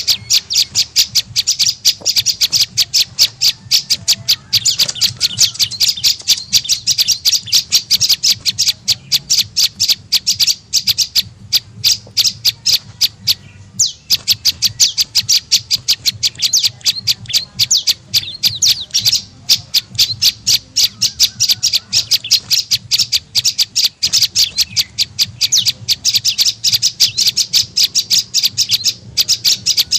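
Prenjak lumut bird calling: a fast, continuous run of short, sharp, high chips, broken by one brief pause about midway. This is the call used as a lure (suara pikat) to draw in wild birds of the same species.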